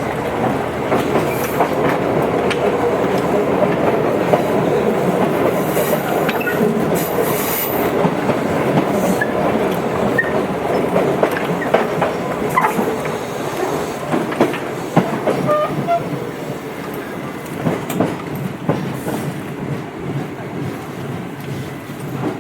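Tobu 8000 series electric train running, with a continuous rumble and wheels clicking over rail joints. It grows somewhat quieter over the last several seconds.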